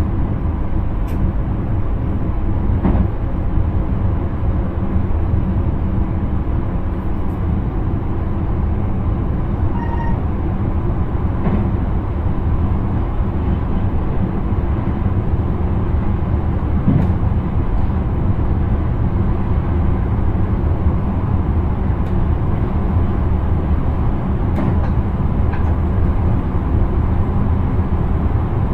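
Intercity train running, heard from inside the driver's cab: a steady rumble of wheels on track and running gear, with a few faint clicks and a short electronic beep about ten seconds in.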